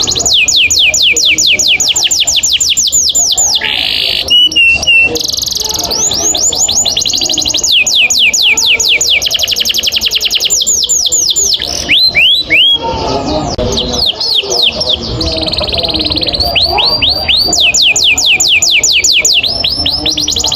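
Domestic canary singing long rolling trills: fast, evenly repeated falling notes strung into long runs. A short harsh buzzy phrase comes about four seconds in, and a few slower, separate sweeping notes about twelve seconds in.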